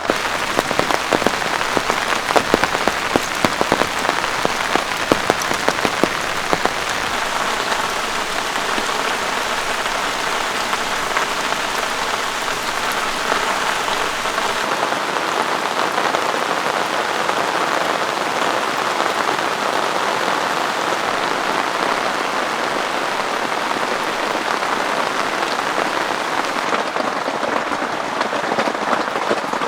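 Heavy rain falling steadily, with many individual drops striking close by during the first several seconds, then settling into an even hiss.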